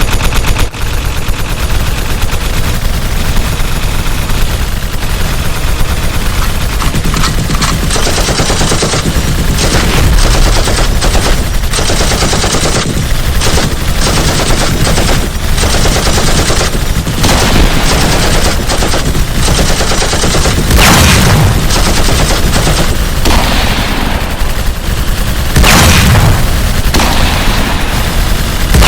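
Sound-effect gunfire: a dense, continuous barrage of rapid machine-gun shots, loud throughout, with two heavier blasts in the last third.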